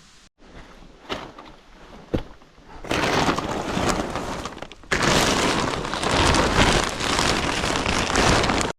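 Heavy rain: a few scattered drops or knocks, then a dense, loud downpour from about three seconds in, briefly broken near five seconds.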